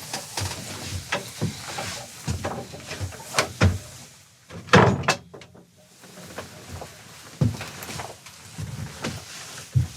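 A run of irregular knocks and thumps, with the loudest thump about five seconds in, followed by a few sharp clicks.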